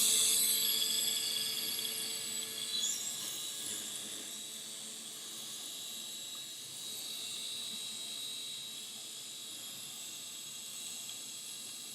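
Toy RC helicopter's small electric motor and rotors running with a high-pitched whine. It is loudest at first, eases down over the first few seconds, then holds steady.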